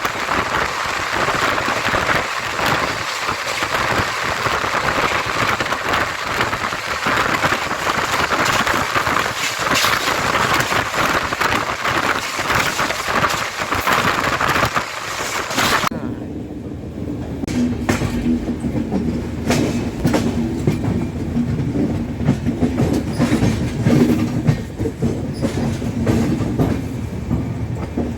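Indian Railways express train running at speed, with a loud rushing noise and wheels clattering over rail joints. About halfway through the sound changes abruptly to a lower rumble with a steady hum and sharp clicks.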